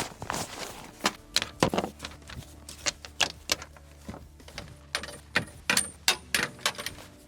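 An irregular string of sharp knocks and clinks, objects being handled, about twenty in all with the loudest at the very start.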